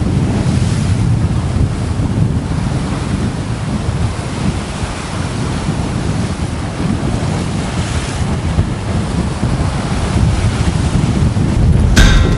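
Strong wind buffeting the microphone over waves breaking against the shore rocks, a loud, steady rush. A sharp knock near the end.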